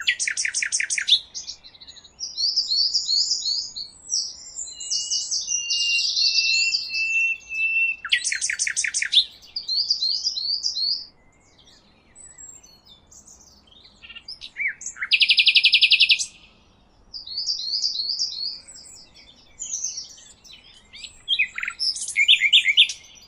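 A songbird singing in phrases of rapid trills, warbled notes and a long steady whistled note, with a pause of a few seconds midway.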